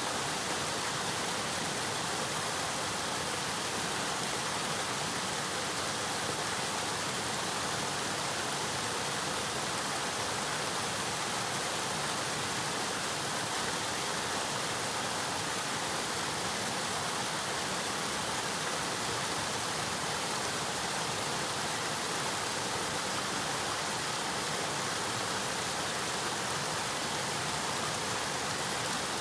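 Flowing river water rushing steadily, an even, unbroken hiss with no single splashes standing out.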